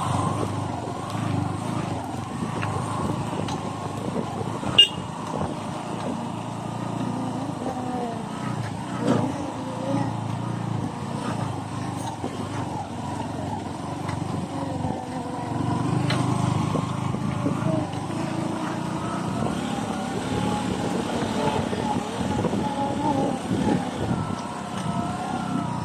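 Motor scooter engine running steadily with road rumble as it rides over a rough road, its pitch wavering as the throttle changes. A sharp knock stands out about five seconds in.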